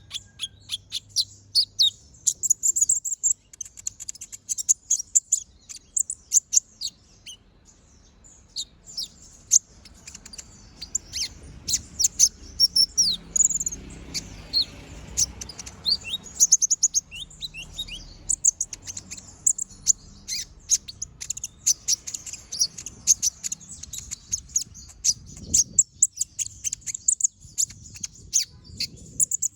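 A kolibri ninja (konin) singing nonstop: a rapid stream of short, high, sharp chirps and quick falling notes with barely a pause, the bird in full, active song.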